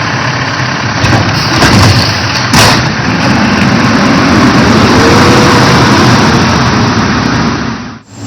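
Garbage truck engine running, with a few sharp knocks about two seconds in and then a whine that rises and falls over several seconds; the sound cuts out abruptly near the end.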